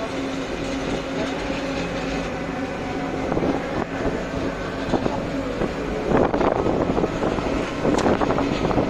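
Truck driving at speed: a steady engine and road hum with the body rattling and clattering, the rattling getting louder from about six seconds in.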